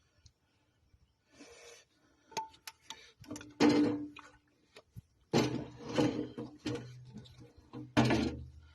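Clunks, knocks and short scrapes as a tractor battery is handled and worked into its compartment, with the loudest clunks about four, six and eight seconds in.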